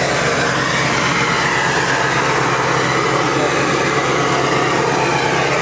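Ford Excursion's 7.3 L Power Stroke turbo-diesel V8 running steadily in the first minutes after a cold start at 26°F without glow-plug preheating.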